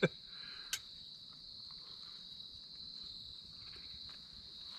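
Crickets trilling in a steady, high, even drone, with one faint click about three-quarters of a second in.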